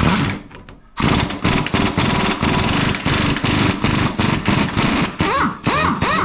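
Pneumatic impact wrench with an 18 mm socket undoing a control-arm mounting bolt. A brief burst comes first, then steady rapid hammering from about a second in. Near the end the pitch sweeps up and down as the bolt spins free.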